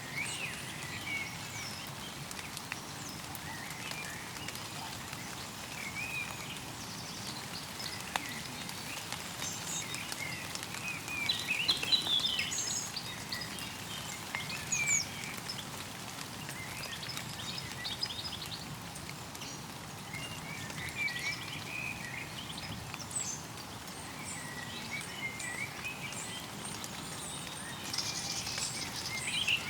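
Mountain stream running with a steady soft murmur, while small birds chirp and twitter throughout, with busier flurries of calls about twelve seconds in and again near the end.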